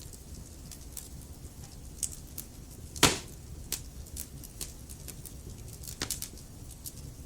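Wood fire burning in a fireplace, the logs crackling with scattered small snaps over a low steady rumble; one loud pop about three seconds in.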